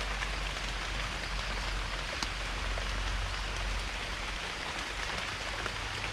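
Heavy rain falling steadily, with scattered drops ticking.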